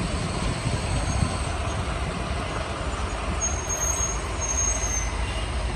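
Heavy loaded truck's diesel engine running with a steady low rumble as it labours up a steep climb.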